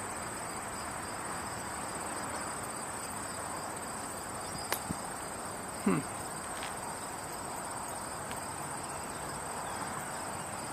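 Insects trilling in a steady, high-pitched chorus over a background of outdoor hiss. A sharp click comes a little before the middle, and a short falling sound follows about six seconds in.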